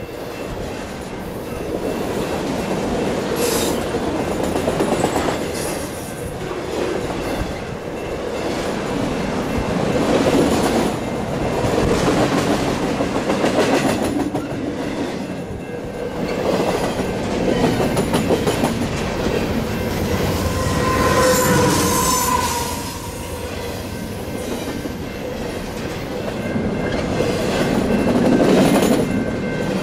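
A train rolling past close by, its cars rumbling and clattering over the rail joints in swelling waves, with a brief squeal of wheels about two-thirds of the way through.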